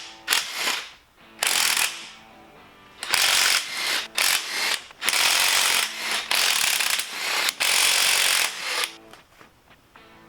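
Hand ratchet wrench clicking in a series of strokes, each lasting about half a second to a second, as bolts are worked loose during an engine teardown.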